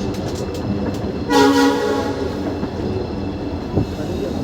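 Short single blast of a diesel locomotive's horn about a second in, lasting under a second, over the steady rumble and rattle of a moving train.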